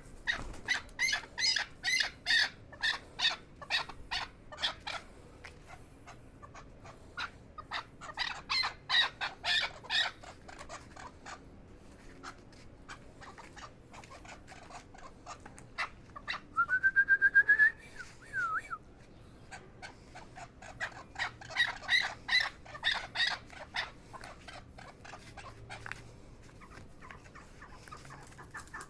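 Chukar partridge calling in three bouts of rapid repeated chuck notes. About two-thirds of the way through, a short, loud rising whistled note is heard.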